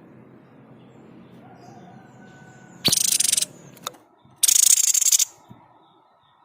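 Babbler known to bird keepers as the 'sniper' bird (tepus dada putih) giving two harsh, rattling bursts about a second apart, each under a second long. This is its 'shot' call. A single sharp click falls between the bursts, and faint high calls of other birds run underneath.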